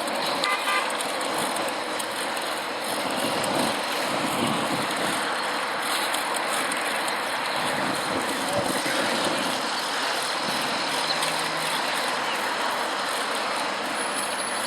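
Steady rushing noise heard from a moving bicycle: wind on the microphone mixed with traffic on the nearby expressway.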